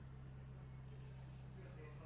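A steady low hum, faint, like a small motor or electrical hum.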